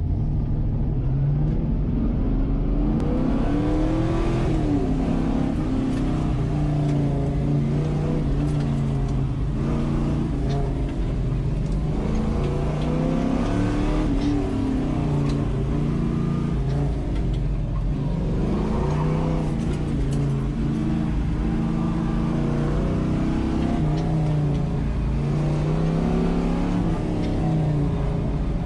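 Classic car's engine heard from inside the cabin, revving up and falling back again and again as the car is driven hard through an autocross course, pulling away from near standstill at the start.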